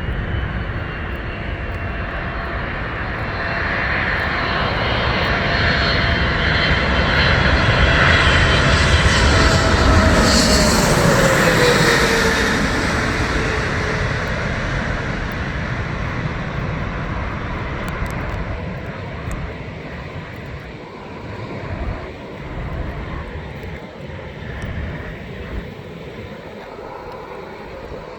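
Jet airliner's engines passing close by: the sound swells to its loudest about ten seconds in, with a falling whine as the plane goes past, then fades away.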